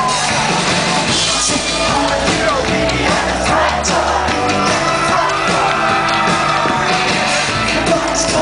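Live pop-rock band performance with a singer's voice over the band and the crowd yelling and whooping along.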